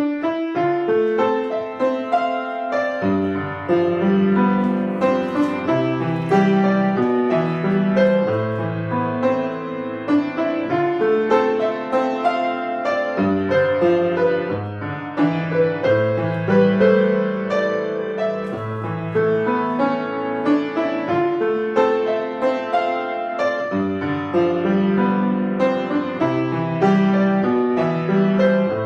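Solo piano playing a piece, beginning suddenly with the first chord and running on as a continuous flow of notes over a moving bass line.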